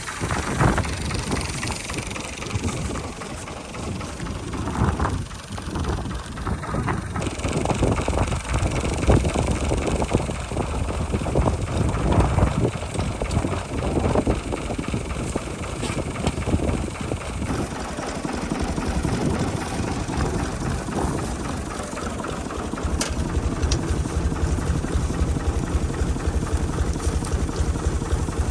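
Al-Ghazi 65 hp tractor engine running steadily while driving a wheat reaper.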